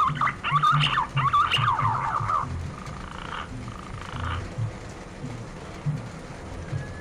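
Green pigeon (punai) calling: a run of fast, wavering whistles for the first two and a half seconds, then two fainter whistled phrases.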